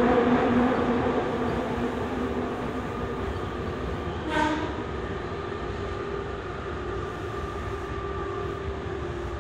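Tobu 20070-series electric train slowing into a station, heard from inside the car. The motor whine fades as it slows, and there is a brief squeal about four seconds in.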